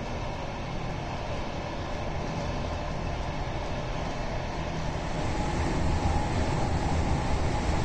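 Interior running noise of a VR Sm2 electric commuter train under way: a steady low rumble from motors and wheels on rail with a faint whine. It grows louder as the train picks up speed, with a step up about five seconds in.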